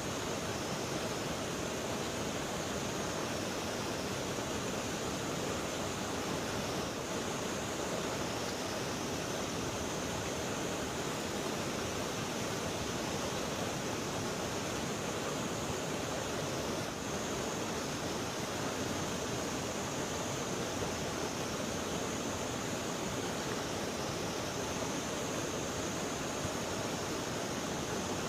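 Steady rush of flowing river water. A high, thin hiss rides on top of it and swells and fades every few seconds.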